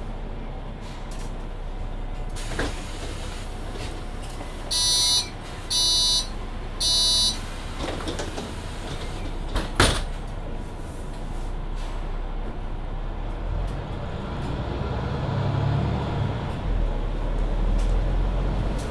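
Inside a Mercedes-Benz Citaro C2 hybrid city bus: three door-closing warning beeps about a second apart, then a sharp knock as the doors shut about ten seconds in. Near the end the engine and drivetrain grow louder with a rising whine as the bus pulls away.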